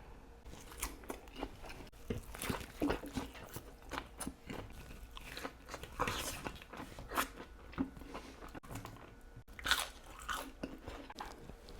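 Someone biting into and chewing crunchy Chick-fil-A food, an irregular run of crunches with the loudest bite near the end.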